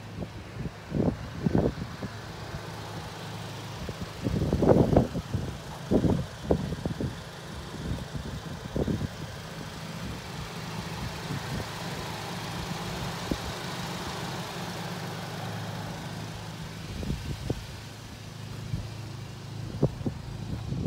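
Volkswagen MK7 GTI's 2.0-litre turbocharged four-cylinder idling steadily with a low hum, under several knocks and rustles, the loudest about five seconds in.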